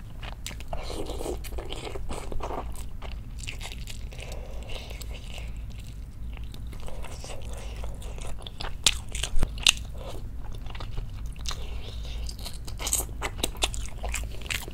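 Close-miked chewing of a bite of chicken in spicy braising sauce: soft, wet mouth sounds broken by sharp clicks. The clicks come in clusters about two thirds of the way through and again near the end.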